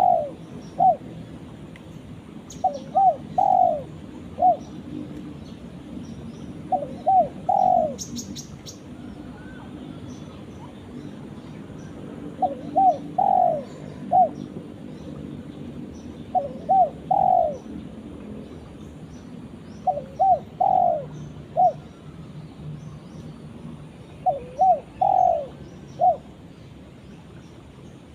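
Spotted dove cooing: short phrases of three or four coos, the last one drawn out, repeated every three to four seconds.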